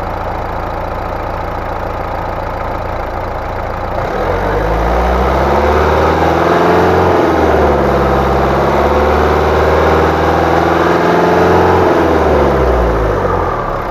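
Mercedes car engine idling, then revved up about four seconds in and held at around 2500 rpm for several seconds before dropping back to idle near the end. The raised revs are held for an alternator charging test with the headlights on.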